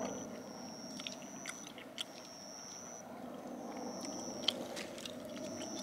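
Food being chewed and crunched close up, with scattered irregular clicks over a steady background hiss. A high, thin trill repeats about once a second.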